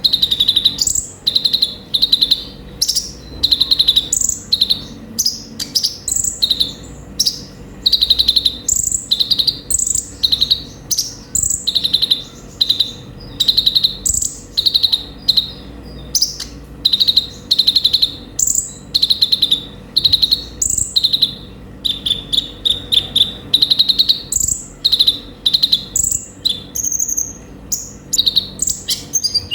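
A konin (kolibri ninja) sunbird singing: fast, high, sharp chirps strung into short repeated phrases, about two bursts a second, with no pauses.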